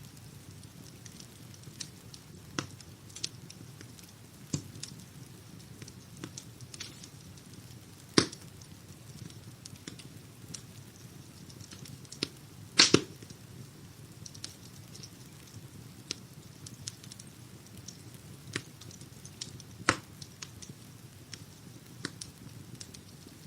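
Wood-burning fire crackling: irregular sharp pops and snaps over a low steady rumble. The loudest pops come about a third of the way in, as a quick double just past halfway, and near the end.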